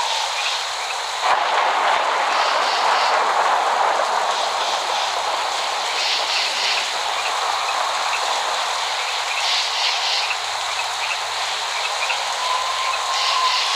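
Steady heavy rain hiss that grows louder about a second in. Short bursts of high chirping come every three to four seconds, and a thin wavering tone appears near the end. No thunder is heard.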